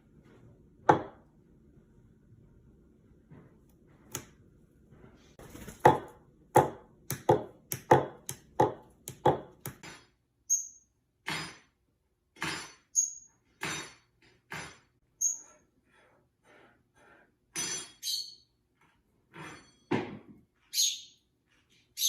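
A series of sharp knocks or taps, quick and even for a few seconds and then more spaced out, with short high bird chirps in between later on.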